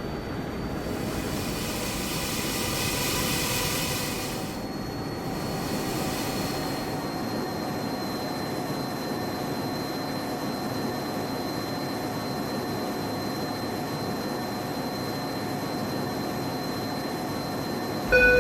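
Metra commuter train running, a steady rumble with a few constant tones, and a louder hiss for about three seconds near the start.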